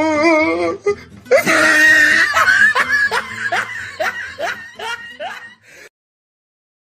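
Laughter sound effect. A wavering voice comes first, then a burst of laughter about a second in that breaks into quick repeated "ha" strokes, which slow and fade before cutting off abruptly near the end.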